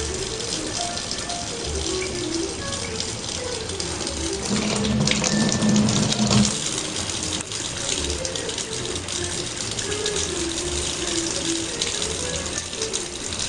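Kitchen tap running into a sink, the stream splashing louder for about two seconds midway as a cat pushes its head into it, over background music with a moving melody and steady bass.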